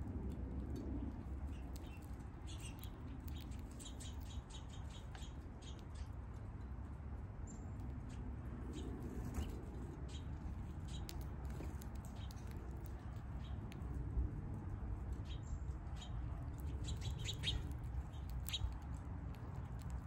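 Small birds giving short, high chirps and chips, scattered and in quick clusters, over a low steady outdoor rumble.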